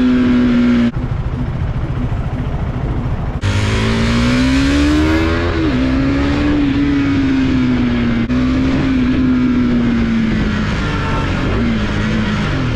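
KTM RC390's single-cylinder engine on the move. The engine note cuts out about a second in, leaving wind and road noise. About three seconds in it returns and rises under acceleration, then drops sharply at a gear change. After that it holds a steady cruising note that slowly eases off, and falls again near the end.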